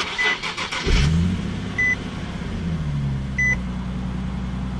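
Nissan 370Z NISMO's 3.7-litre V6 cranked on the starter and catching about a second in, the revs flaring up and then settling into a steady idle. A short warning chime beeps three times at even spacing over it.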